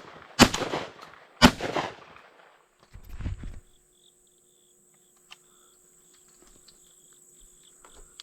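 Two 12-gauge shotgun shots about a second apart, each with a short fading tail, then a brief low rumble about three seconds in. A steady high insect buzz goes on underneath.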